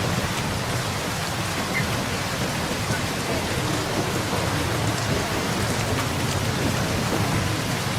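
Heavy rain falling steadily, with an even hiss and a low rumble running beneath it.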